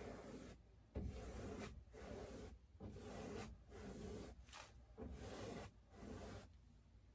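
Faint, repeated rubbing strokes of a paintbrush across a stretched canvas, about one stroke a second, working water into the paint.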